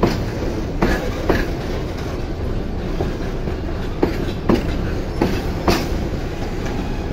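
Freight train of boxcars rolling past: a steady rumble of wheels on rail, broken by sharp clacks that come in pairs about half a second apart as the wheels pass over the rail joints.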